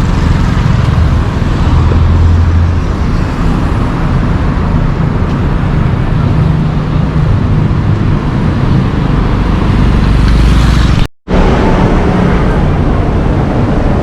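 Busy city road traffic: cars running past in a steady, loud wash of engine and tyre noise with a deep rumble underneath. About eleven seconds in the sound cuts out abruptly for a moment, then resumes.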